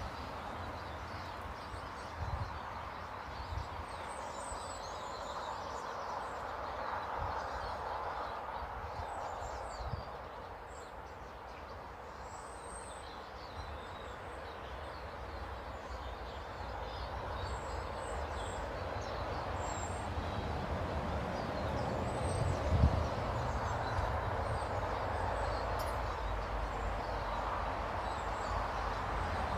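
Outdoor ambience at bird tables: faint, short chirps of small birds scattered throughout over a steady rushing background that swells and eases, with low rumbles and a few thumps.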